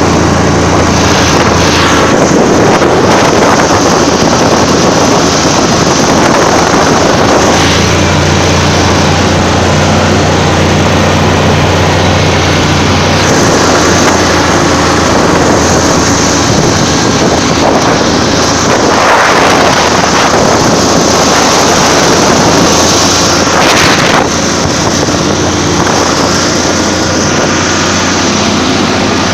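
Buran 4T four-stroke snowmobile engine running hard at a steady high speed, with wind buffeting the microphone. The engine note eases a little about three quarters of the way through.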